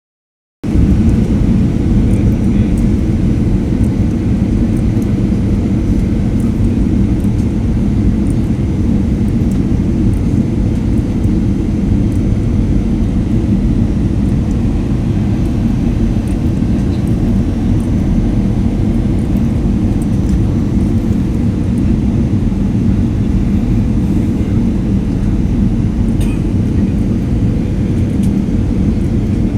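Loud, steady rush of aircraft noise and wind at an open cabin door in flight, a deep unbroken roar that starts abruptly just after the beginning.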